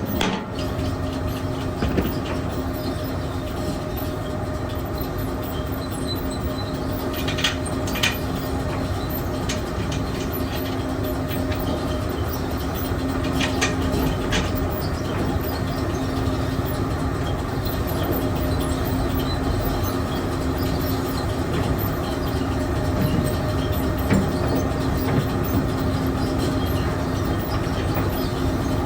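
Steady rumble of running machinery with a constant low hum, and scattered light clicks and taps over it.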